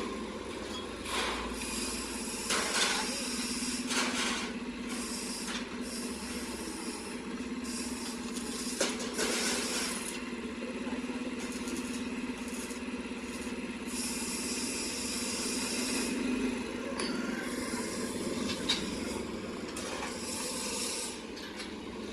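A steady mechanical hum with repeated short hissing rushes and a few sharp knocks, as of machinery working metal.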